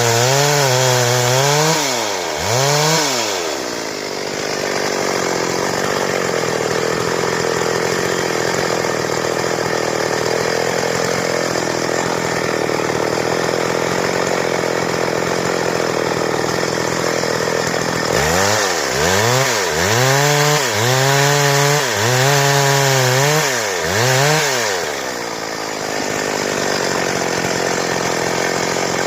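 Stihl chainsaw running, revved up and down twice near the start and several times again later on, with a long steady stretch between that fits the saw cutting through wood.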